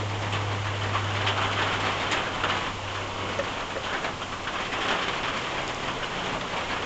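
Steady rain falling on tree leaves and pavement: an even hiss with the patter of many individual drops. A low hum underneath fades out about halfway through.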